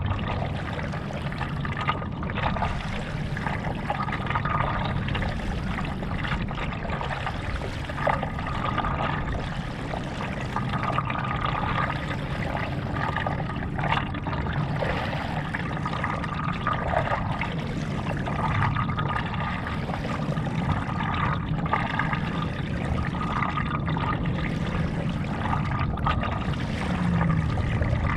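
Stand-up paddle strokes in lake water: the blade dips and pulls about every two seconds, with water trickling and splashing off it in between.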